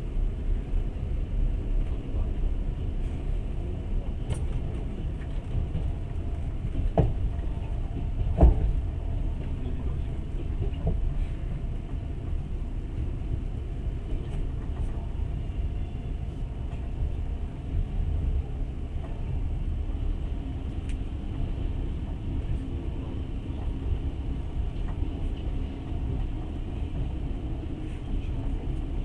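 Passenger train running, a steady low rumble heard from inside the carriage, with two sharp knocks about seven and eight and a half seconds in.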